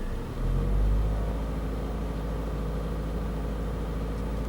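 A Vauxhall Insignia's 2.0 CDTI four-cylinder turbo diesel engine idling steadily, heard from inside the car. About half a second in, the hum swells briefly, then settles back to an even idle.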